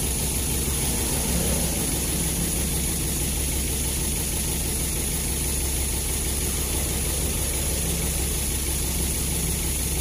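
Daihatsu Gran Max four-cylinder engine idling steadily with a vibration: cylinder 4 is misfiring because its ignition coil has failed (code P0304).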